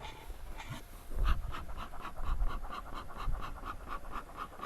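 An animal panting rapidly, about five short breaths a second, starting a little over a second in, with a low thump just before it.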